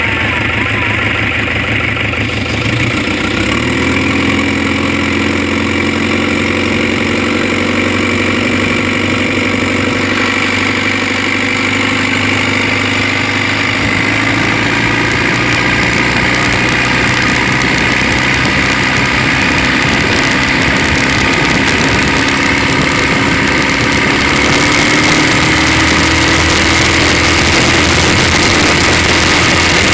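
Chevrolet S10's Maxion turbo diesel engine running steadily at idle. Its pitch rises slightly a few seconds in, and it runs a little faster and louder after about 25 seconds.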